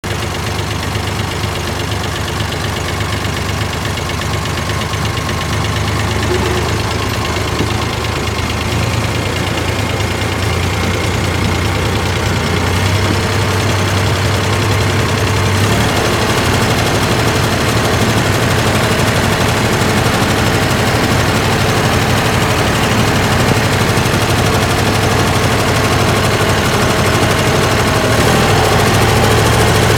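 David Brown 885 tractor's three-cylinder diesel engine running steadily at a low, knocking idle, growing a little louder about halfway through.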